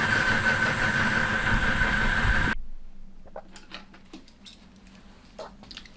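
Myford Super 7B lathe running on its inverter-fed motor, a steady machine sound with a high whine, which stops abruptly a little over two seconds in. It is followed by quiet, scattered small clicks and clinks of metal tools being handled.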